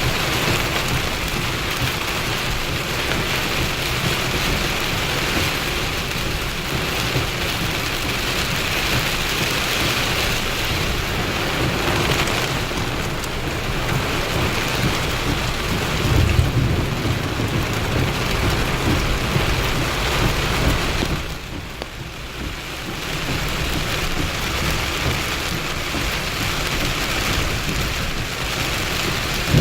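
Heavy rain falling steadily in a thunderstorm, with a low rumble of thunder about halfway through; the rain eases briefly about two-thirds of the way in, then picks up again.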